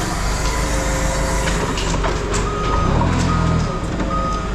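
A heavy vehicle's engine running steadily while its backup alarm beeps three times in the second half, with a few metallic clicks.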